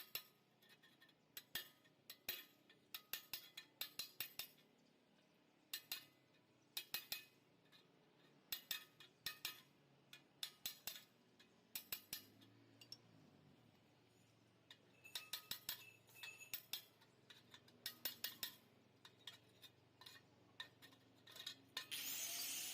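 Light metallic clinks and taps in quick clusters of two to four, repeated every second or so, as metal parts are tapped or handled. A steady hiss starts near the end.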